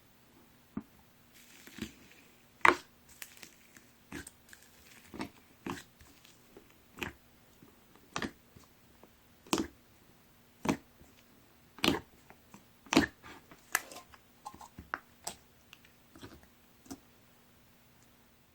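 Styrofoam-bead slime being squeezed and pressed by hand, giving sharp crunchy crackles about once a second, coming faster for a few seconds past the middle.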